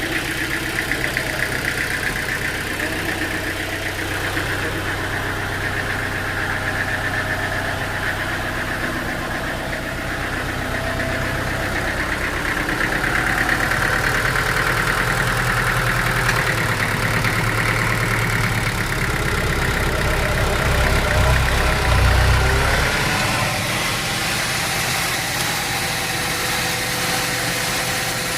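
Sawmill's engine running steadily, with its sound shifting partway through and a louder low rumble for a few seconds near the end.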